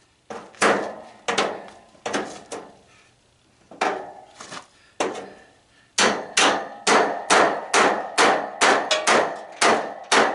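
Hammer blows on a tanning bed being broken down for scrap, knocking at a part to break it loose. The blows come irregularly at first, then as a quick, even run of about a dozen in the last four seconds, each leaving a short ring.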